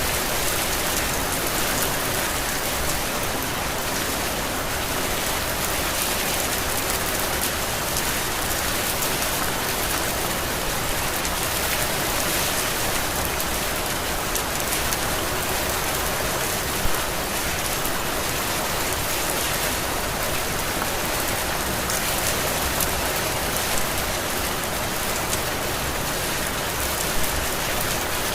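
Steady heavy rain falling on surfaces, an even hiss of drops with one brief louder spatter about two-thirds of the way through.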